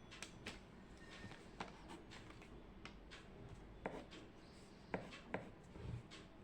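Faint desk sounds of studying: a pen writing on paper, with scattered light taps and clicks at irregular intervals.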